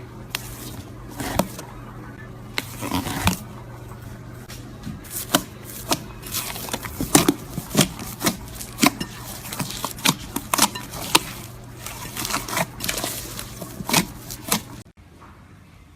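Slime being worked by hand, giving irregular sticky pops, clicks and crackles over a faint low hum. The popping stops abruptly about a second before the end.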